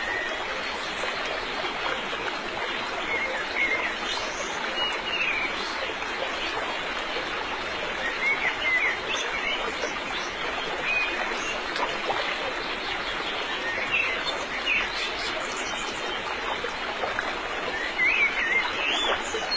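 Short bird chirps, repeated now and then, over a steady rushing noise.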